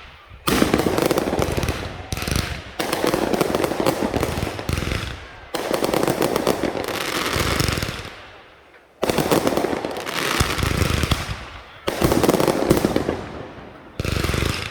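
Fireworks going off in a string of barrages: about seven sudden bursts of dense, rapid crackling, each starting abruptly and fading over a second or two, one after another.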